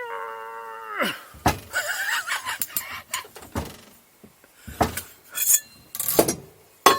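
A strained metal creak from the puller and bar under heavy load on a stuck jet-ski engine part. It holds one pitch for about a second, then bends down and stops, and is followed by a series of irregular metallic clanks and knocks.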